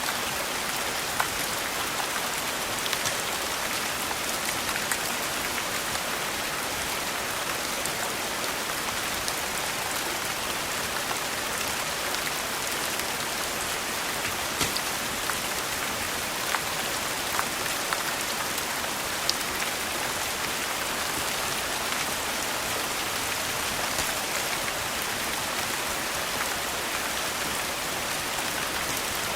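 Steady rain falling, an even hiss with scattered sharp clicks throughout.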